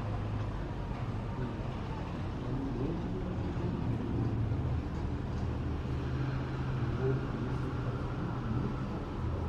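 Steady low rumble of jet airliner engines, with a faint higher tone that builds slightly about halfway through. Faint voices in the background.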